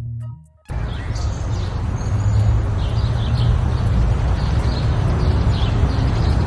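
Outdoor ambience that cuts in suddenly less than a second in: a steady low rumble with scattered short bird chirps over it.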